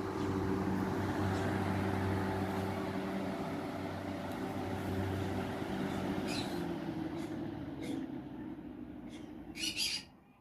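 Mistral Gyro Aire slimline box fan running with a steady motor hum and rush of air, then slowly winding down and falling quiet near the end, with a few light clicks as it slows.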